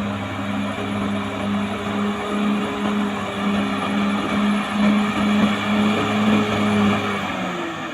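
Caterpillar D6R XL bulldozer's diesel engine running steadily under load, with dense clanking track and ground noise. Near the end the engine note drops and fades.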